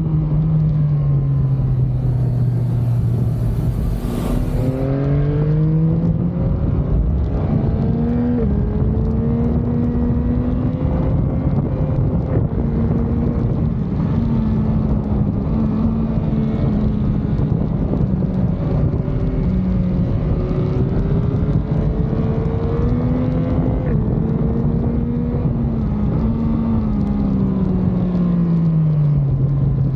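Sport motorcycle engine under way, revving up through the gears: the pitch climbs, then drops sharply at each upshift, several times, and falls away smoothly as the rider rolls off near the start and again near the end. Dense road and wind noise runs underneath.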